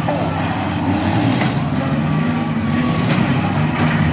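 Several demolition derby cars' engines running and revving together, their pitches rising and falling, with a few sharp knocks scattered through.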